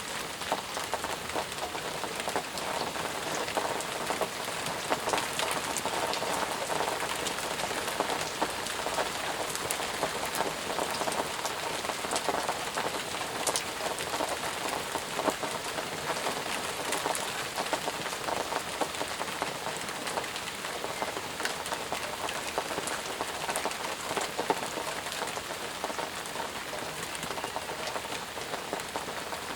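Steady heavy rain falling, an even hiss with many small drop ticks on the surface.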